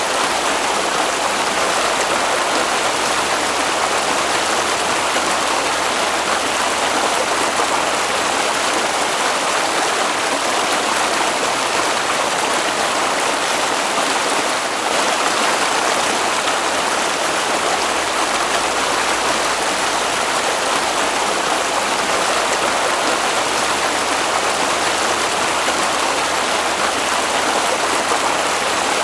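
Water flowing in a stream, a steady, even rushing without a break.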